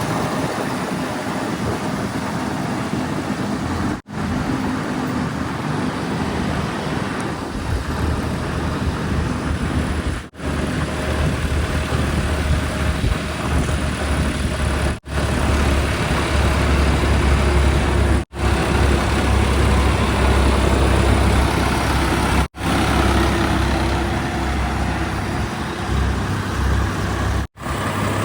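Heavy diesel machinery engines running with a steady deep rumble under a noisy hiss. The rumble grows heavier about a third of the way through. Brief dropouts six times, every three to six seconds, cut the sound between clips.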